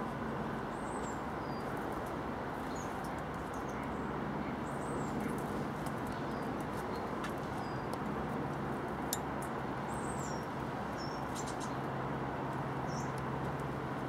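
Small birds giving short, high chirps every second or so over a steady outdoor background hum, with a few sharp taps near the feeder about two-thirds of the way through.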